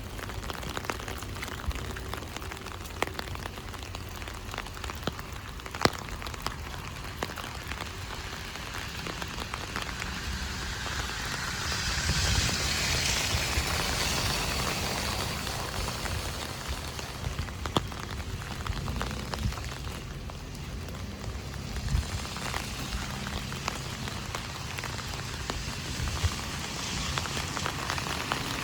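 Heavy rain drumming on an umbrella, with scattered sharper drops and a low rumble underneath. About midway a rushing hiss swells and fades over a few seconds.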